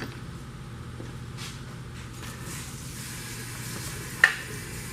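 A steady low hum with one sharp click about four seconds in, as engine parts are handled on the bench.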